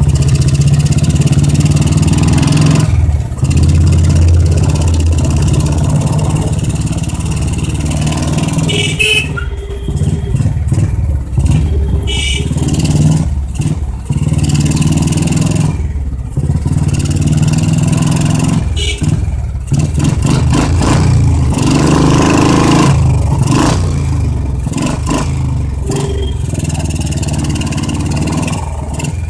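Motorcycle engine and loud exhaust while riding, the engine note rising and falling with throttle and dipping briefly at several gear changes, with wind rush on the helmet-mounted microphone. Two short high beeps sound near the middle.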